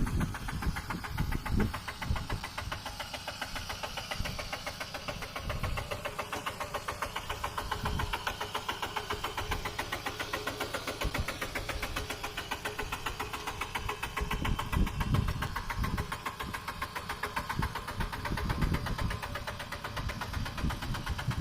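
Mini tractor's engine running steadily with an even, rapid pulsing beat, with a few heavier low surges in the second half.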